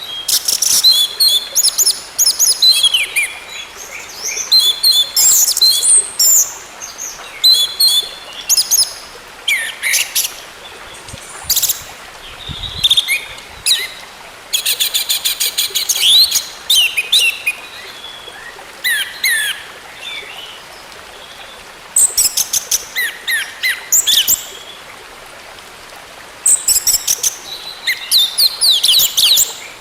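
Orange-headed thrush (anis merah) singing: a string of varied, high-pitched phrases of whistles and chattering notes with short pauses between them. Fast runs of rapidly repeated notes come a little after the middle and again near the end.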